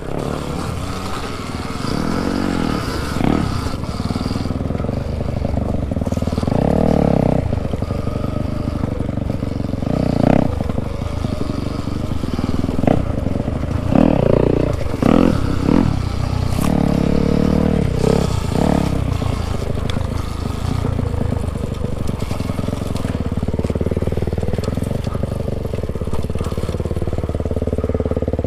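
Dirt bikes riding down a rough enduro trail, including an Alta Redshift MXR electric dirt bike: a steady running drone with surges that rise and fall every few seconds, and clatter and scrapes from the bikes over rough ground.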